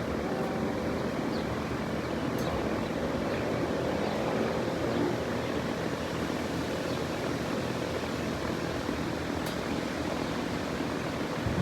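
Jet engine noise of a Boeing 787-9 airliner passing overhead: a steady rumble that swells slightly about four seconds in.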